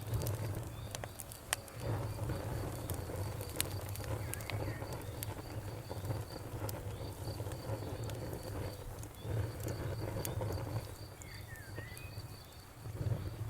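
Wood fire in a fireplace crackling, with scattered sharp pops and a low rumble of burning that swells and eases, dipping briefly near the end. A faint, evenly pulsing high chirp, like a cricket, runs underneath.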